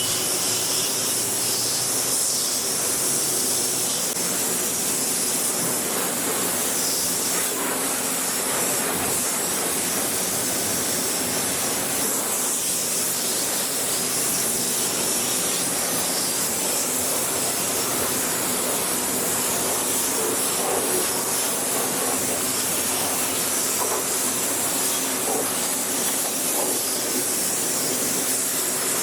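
High-pressure water spraying at a car wash: a steady, unbroken hiss with no pauses.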